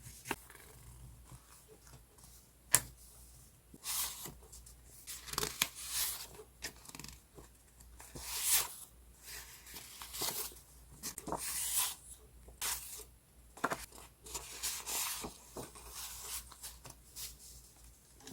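Sheets of decorative scrapbooking paper being handled and rustled in a series of short, crisp bursts, with one sharp click about three seconds in.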